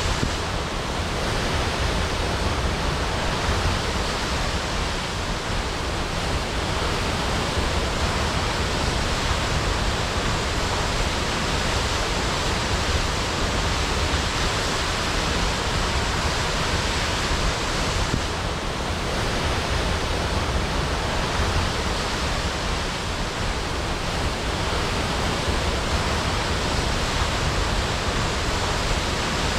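Waterfall crashing: a steady, dense rush of falling water with no breaks.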